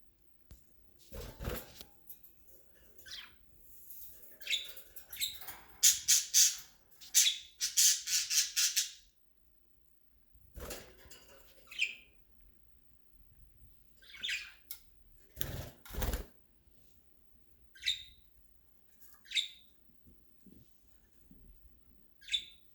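Pet budgerigars making short chirps and squawks, with a run of wing flapping and rustling a few seconds in and a few dull thumps. Single high chirps come singly near the end.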